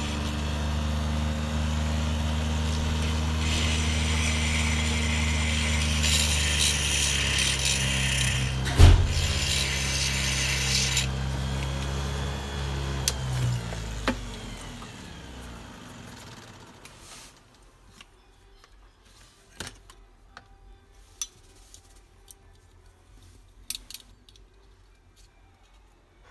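A power tool's motor running steadily, with a harsh cutting or grinding noise over it for several seconds and one sharp knock. Roughly halfway through, the motor spins down and stops, leaving only a few faint clicks and taps.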